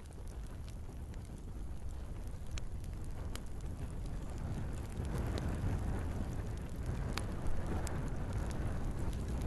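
Wood fire burning in a fireplace: a steady low rush of flame with scattered sharp crackles and pops. The rush swells about halfway through, and one louder pop comes near the end.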